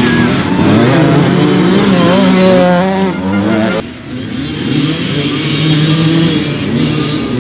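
Enduro dirt bike engine revving hard, its pitch rising and falling as the throttle is worked, cutting off sharply about four seconds in and then picking up again at a steadier pitch.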